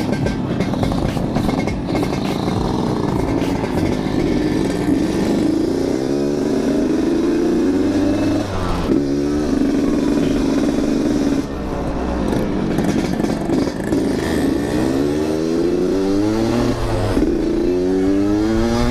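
Yamaha RX-King's 135 cc two-stroke single-cylinder engine being ridden and accelerating, its pitch climbing and dropping back several times through the gears. It runs a little rough and sputtery, which the rider puts down to the bike standing unused for a long time.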